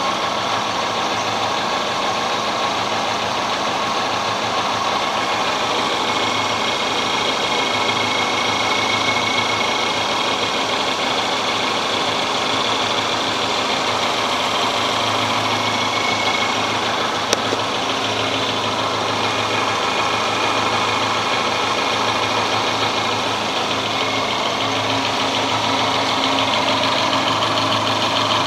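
Subaru EJ22 2.2-litre flat-four engine idling steadily, heard from close beneath the engine. There is one brief sharp click about seventeen seconds in.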